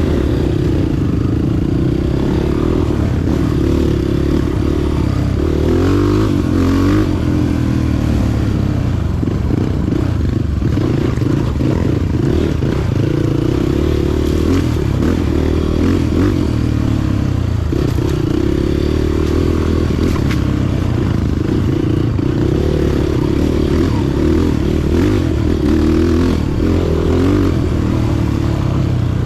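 Motorcycle engine running while riding, its pitch rising and falling a few times as the throttle changes.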